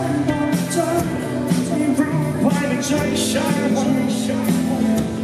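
Live pop-rock band playing a song.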